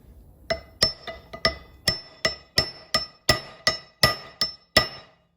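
A hammer strikes metal in a steady run of about thirteen ringing blows, roughly three a second. The blows knock at an axle bearing that has been partly cut through with a cutoff wheel on a Nissan Xterra's M226 axle shaft, to break it loose.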